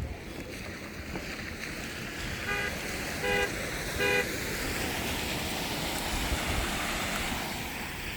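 Vehicle horn honking three times in an even rhythm, about one honk every 0.8 seconds, over a steady rushing noise.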